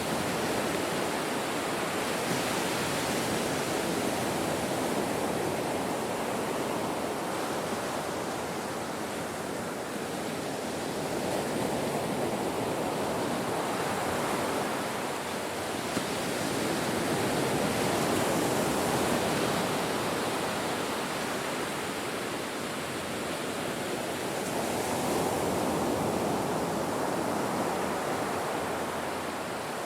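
Ocean surf breaking on a shore: a continuous wash of waves that swells and ebbs in slow surges every five to eight seconds.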